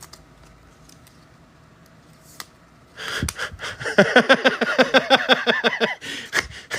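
Faint scattered clicks of cards being handled, then, about three seconds in, a person's voice in a quick run of repeated pitched syllables, several a second, lasting about three seconds.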